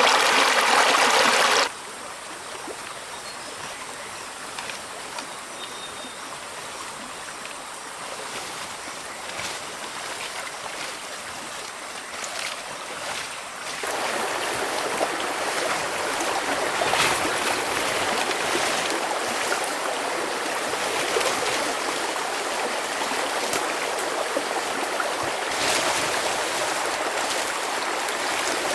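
Running stream water, a steady rushing. It is loud for the first couple of seconds, cuts suddenly to a quieter rush with a few faint clicks, then steps up louder again about halfway through.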